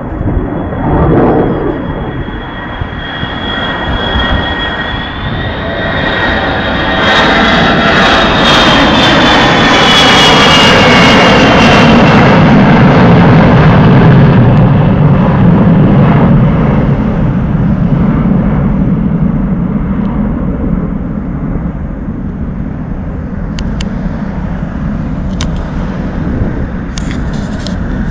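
Boeing E-3A Sentry AWACS jet with four turbofan engines flying low overhead. A high engine whine swells and then drops in pitch as the aircraft passes, about ten seconds in. It gives way to a deep rumble that slowly fades as the aircraft moves away.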